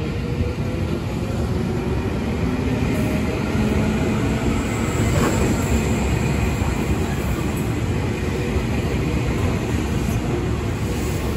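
JR 205 series electric commuter train rolling past, a steady rumble of wheels on rail that swells slightly around the middle.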